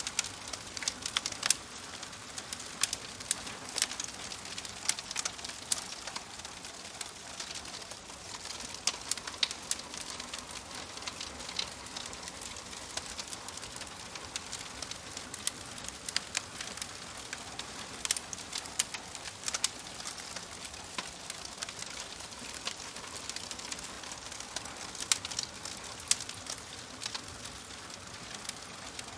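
Wood fire crackling in a fireplace: a steady soft hiss with frequent irregular sharp pops and snaps, a few of them much louder than the rest.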